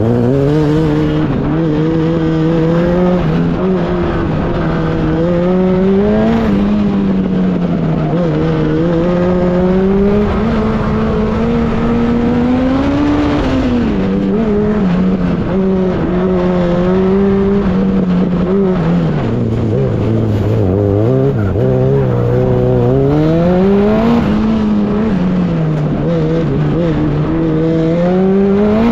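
Race car engine heard from inside the cockpit, revving up and down continually as the car accelerates and slows through an autocross cone course, with a deep drop in revs about two-thirds of the way through.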